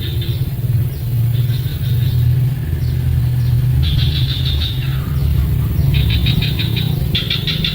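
Bird nestlings begging: repeated bursts of rapid, high chittering calls, each under a second long, over a steady low rumble.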